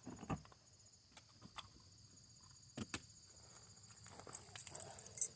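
Crickets calling in a steady, high, even chorus, with a few sharp clicks and light taps scattered through it, the loudest near the end.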